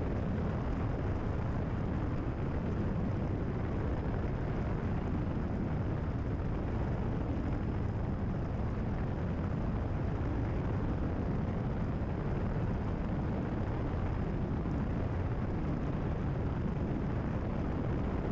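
Cessna 172RG's four-cylinder Lycoming engine and propeller running steadily at cruise power, heard inside the cockpit.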